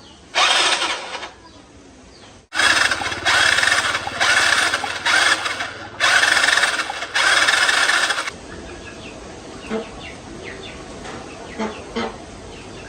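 Repeated loud bursts of a motor, each lasting about half a second to a second, then a few light taps.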